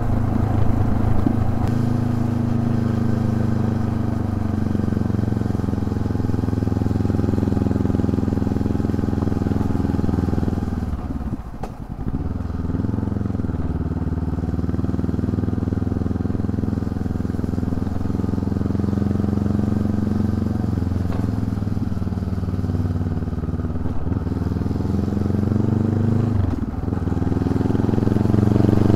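Honda CB500X's parallel-twin engine running under way. The engine note dips and recovers briefly about twelve seconds in and again near the end, then climbs as the revs rise.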